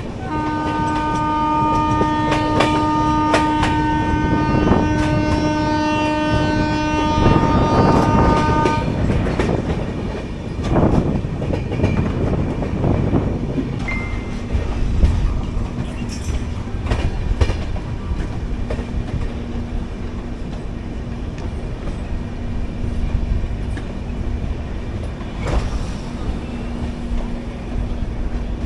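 A train horn sounds one long multi-tone blast for about the first nine seconds over the running noise of the Maithili Express passenger train. After that the coaches rattle on with wheels clicking over the rail joints.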